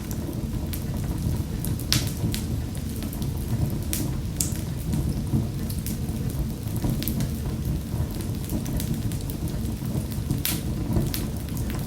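Wood fire in a fireplace crackling, with scattered sharp pops over a steady low rumble of the flames; the loudest pops come about two, four and ten seconds in.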